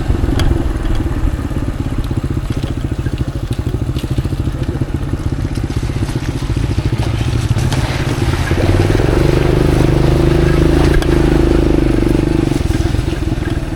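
Motorcycle engine running while being ridden on an off-road track; the engine note rises and gets a little louder about two-thirds of the way through, then drops back near the end.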